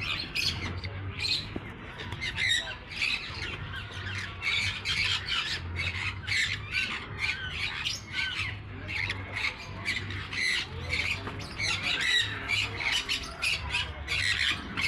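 A crowd of aviary birds squawking, many short, harsh calls overlapping several times a second.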